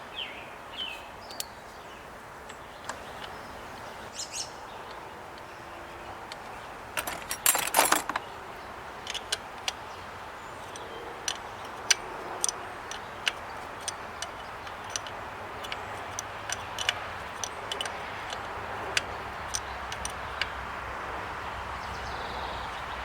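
Hand tools working a fuel line fitting onto a diesel lift pump: scattered small metallic clicks and taps, with a louder clatter about 7 to 8 seconds in.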